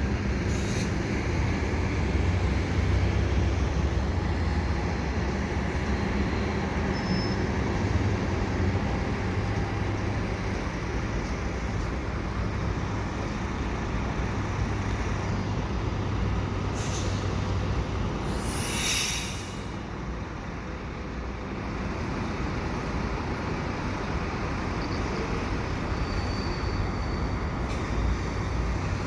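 Commuter train locomotive running steadily with a low drone as the train backs slowly along the track. A short sharp hiss of released air from its brakes comes a little past the middle.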